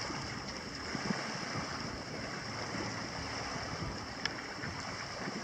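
Steady seaside noise of surf and wind on the microphone, with a few faint short knocks and a brief click about four seconds in.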